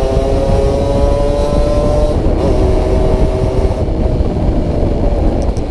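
Yamaha RX-King two-stroke motorcycle engine running while riding, its pitch rising slowly and then dropping at a gear change about two seconds in, over a heavy low noise.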